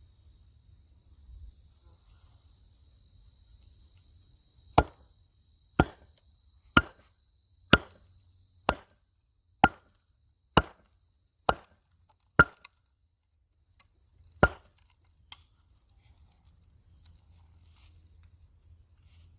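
Wood cracking: nine sharp cracks about a second apart, then one more after a pause of about two seconds.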